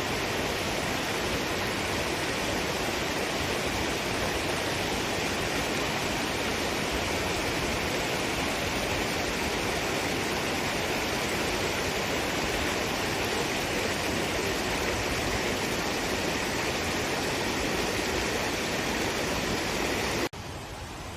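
Steady rushing of falling water. It drops off suddenly near the end to a much quieter background.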